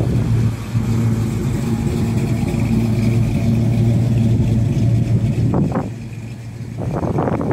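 A classic car's engine running at low, parade-pace speed as it passes, a steady low hum that drops away about five and a half seconds in. Wind gusts on the microphone follow near the end.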